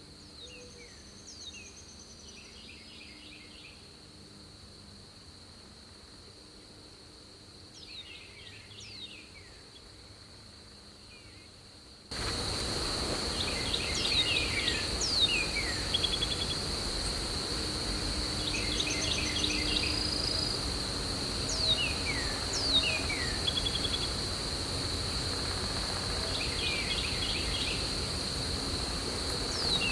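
Steady high-pitched insect drone, with a bird repeating a short phrase of downward-sliding whistles and quick runs of notes about every six seconds. Everything gets suddenly louder about twelve seconds in.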